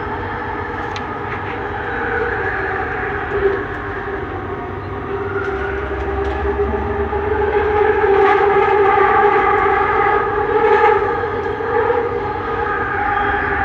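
Bombardier Innovia Metro 300 train running between stations, heard from inside: steady rolling noise under the layered whine of its linear induction motor, which swells midway and holds. A few sharp knocks come through along the way.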